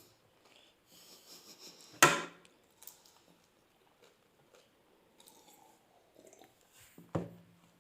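Faint, soft chewing and mouth noises of someone eating doi fuchka, crisp puri shells with yogurt filling. Two brief louder sounds break in, one about two seconds in and one near the end.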